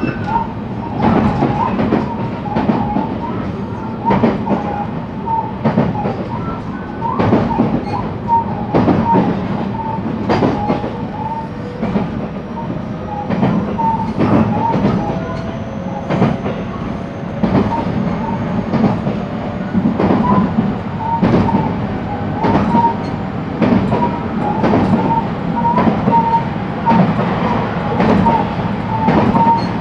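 Cab-car interior of a JR West 223 series electric multiple unit (KuMoHa 223) running at speed. The wheels click over rail joints many times at uneven spacing, above a steady rolling rumble.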